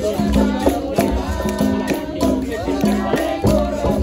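Capoeira roda music: berimbaus played in a steady rhythm with caxixi rattles and pandeiro, about three strikes a second, with voices singing over it.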